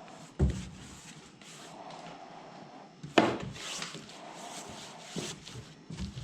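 Slow hand-scraping or rubbing strokes on a hard surface, with two sharp knocks, the second one louder.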